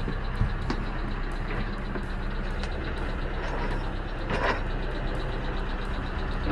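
An engine running steadily with a low hum, with a few light clicks and a louder knock about four and a half seconds in.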